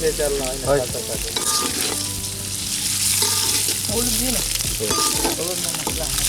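Bhuna khichuri frying in a pan with a steady sizzle as it is stirred.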